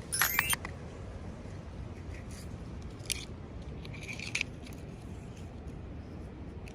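Toy packaging being opened by hand. A quick cluster of sharp snips or clicks comes right at the start, a single click about three seconds in and a short crackle a second later, over a steady low hum.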